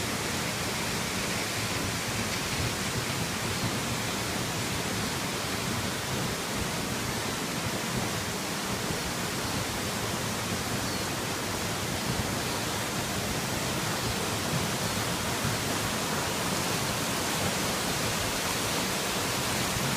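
Small forest waterfall rushing steadily, an even, unbroken sound of falling water.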